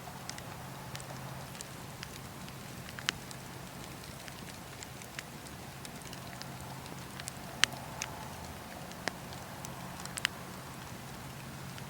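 Wood campfire burning: a steady hiss and low rumble with scattered sharp crackles and pops, the loudest pop about two-thirds of the way through.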